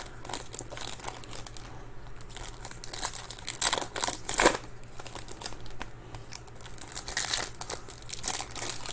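Trading-card pack wrappers crinkling and tearing as packs are ripped open, in scattered bursts.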